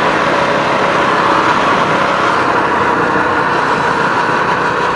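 Minibike engine held at full throttle on a downhill top-speed run: a loud, steady running sound that holds the same pitch throughout.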